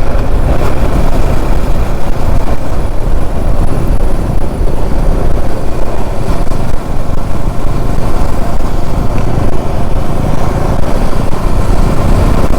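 Motorcycle being ridden at steady speed: its engine running under a loud, steady rush of wind and road noise on the rider's camera microphone.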